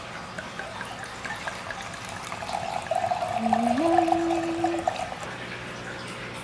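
Water running and splashing, swelling for a couple of seconds in the middle, with a short pitched tone that steps up partway through.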